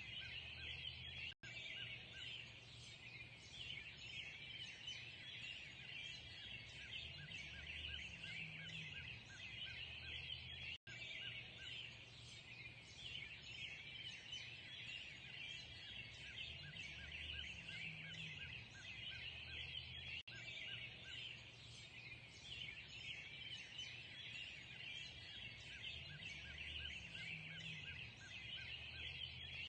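Dense morning chorus of many birds chirping and singing together, over a low rumble. The sound cuts out for an instant three times, about nine and a half seconds apart.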